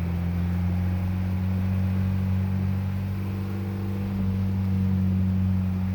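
Steady low hum of a motor vehicle's engine running, even and unchanging throughout.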